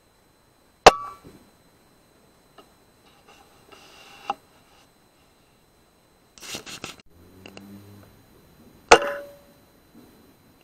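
Two sharp shots from a Weihrauch HW100 pre-charged air rifle, about eight seconds apart, each with a short ring after it. Quieter mechanical clicks and a brief rattle fall between them.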